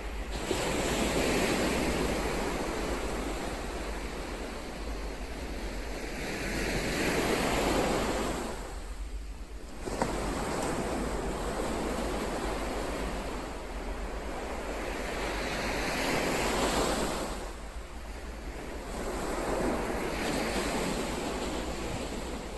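Ocean waves breaking and washing in, the sound swelling and fading in surges every few seconds, with a short lull just before the middle.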